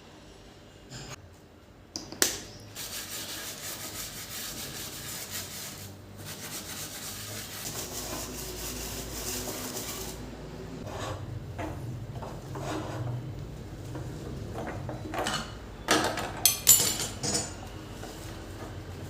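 Kitchen work sounds: a sharp click, several seconds of steady hiss, then dishes and utensils being handled, with a few loud clatters near the end.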